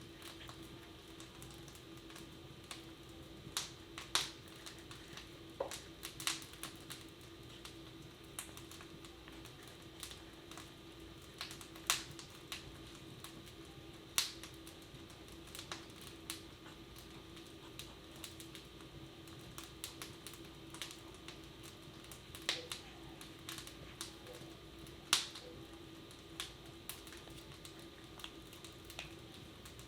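Wood fire crackling in a fireplace: irregular sharp pops and snaps, a few louder than the rest, over a faint steady household hum.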